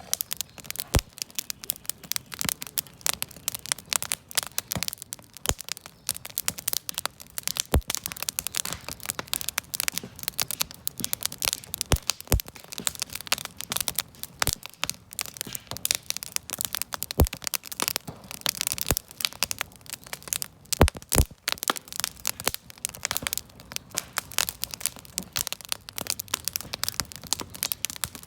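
Wood bonfire crackling: a dense, irregular run of small snaps with a handful of louder pops.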